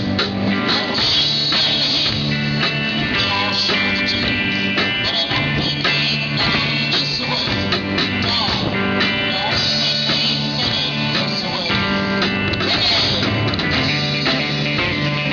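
A live country band playing, led by guitar over a steady beat.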